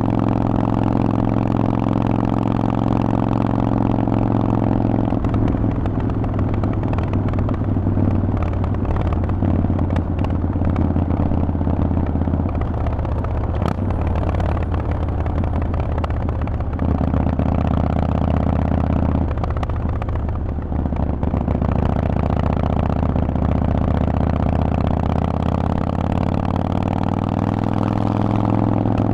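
Harley-Davidson Forty-Eight's air-cooled 1200 cc V-twin running through a Vance & Hines aftermarket exhaust while riding. The engine note falls and rises several times as the throttle and gears change, then climbs slowly near the end.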